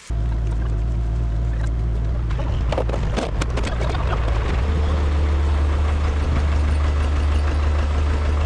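A heavy engine running steadily, with a few sharp knocks about three seconds in and a change to a deeper, steadier note about halfway through.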